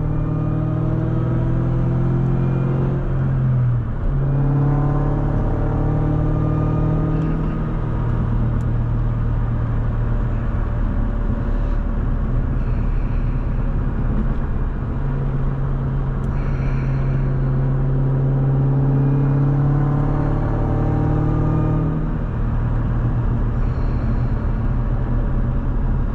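2003 Mustang SVT Cobra's supercharged 4.6-litre V8 under way. The engine pitch climbs as the car accelerates and drops back at a gear change about three and a half seconds in. It then runs at a steadier pitch for a while before climbing again and dropping at another shift a little past twenty seconds in.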